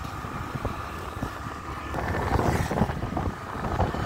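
Wind buffeting the microphone over the rumble of a vehicle travelling along a road, swelling a little about halfway through.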